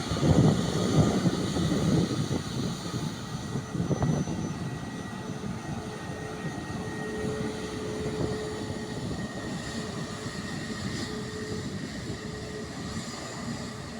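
Jet airliner's engines rumbling, loudest in the first few seconds, then fading to a quieter steady whine.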